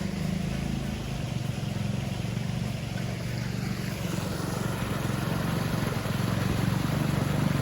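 Creek water gushing out of a culvert that has just been unplugged of debris, a steady rushing. An engine runs steadily underneath it.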